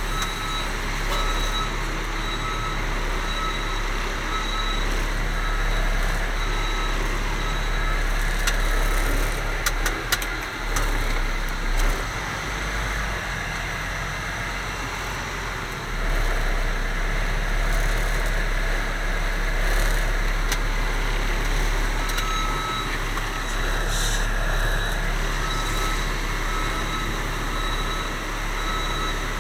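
Bulk-trash grapple truck's engine running steadily, its backup alarm beeping in an even repeating pattern through the first several seconds and again near the end. A few sharp knocks come about a third of the way in.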